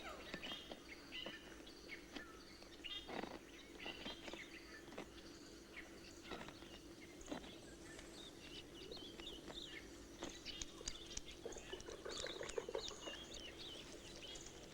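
Faint forest ambience full of short bird chirps and calls, scattered and overlapping, with a steady low hum underneath.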